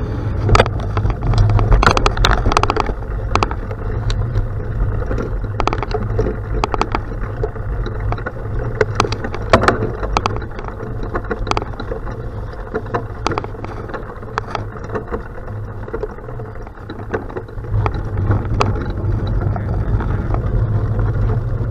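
Bicycle riding over a gravel road: a steady low rumble of wind on the microphone, with scattered sharp clicks and rattles from the tyres on the gravel and the bike itself, thickest near the start and again about nine seconds in.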